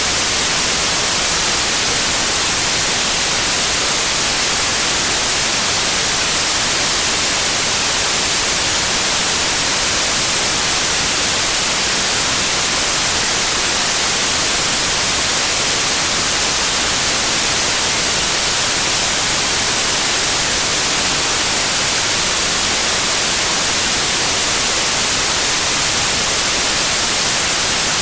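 Steady, unchanging generated noise: an even hiss, strongest in the treble, with no pitch or rhythm.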